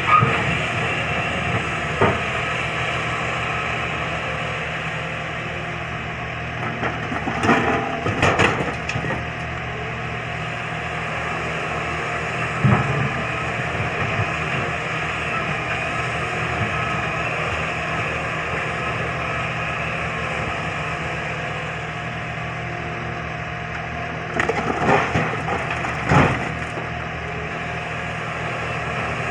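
Doosan DX140W wheeled excavator's diesel engine running steadily, with short clusters of cracking knocks from stone being worked, loudest about eight seconds in and again near the end.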